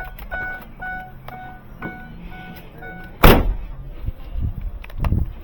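A car's electronic warning chime beeping about twice a second, stopping a little under three seconds in, followed by a loud thunk and a smaller knock near the end.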